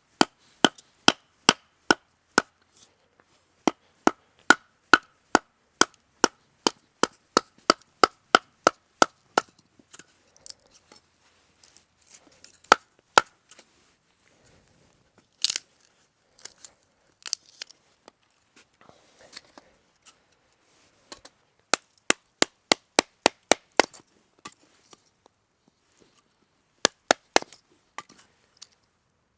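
Chopping with a blade in quick sharp strokes, about two a second, in runs broken by pauses, with one louder crack midway.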